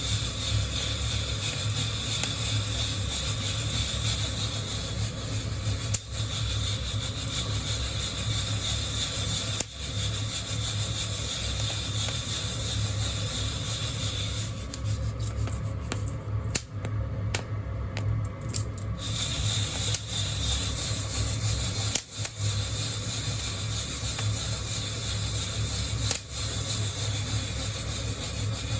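Coffee beans rubbing and rattling against a hand-held wire-mesh roasting net, shaken over a steady hiss and low hum, with a few sharp clicks. The hiss drops out for a few seconds about halfway through.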